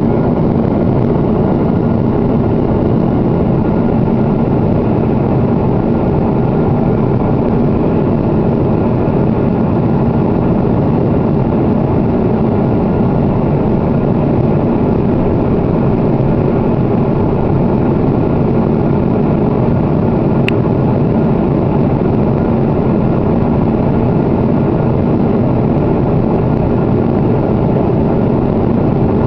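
Steady cabin noise of a Boeing 777-300 airliner at cruise: an even rush of engines and airflow, with one sharp click about twenty seconds in.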